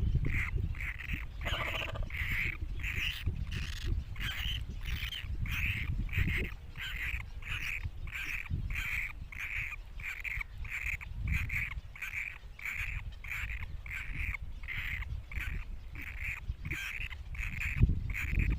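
Great cormorant chicks calling: a steady run of short, high calls, about two a second, over a low rumble.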